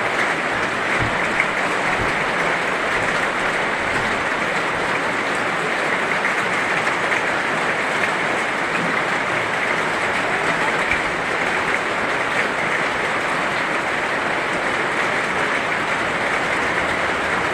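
Heavy rain falling steadily: a dense, even hiss of rain with scattered drop ticks.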